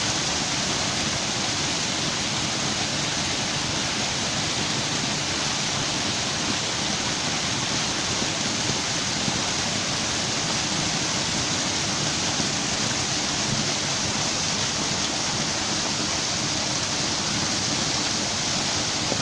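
Steady, unbroken rushing noise like running or falling water.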